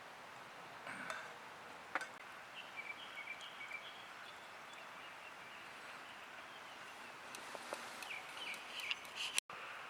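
Faint outdoor evening ambience: a steady hiss with a few light clicks and short, high chirps from small birds.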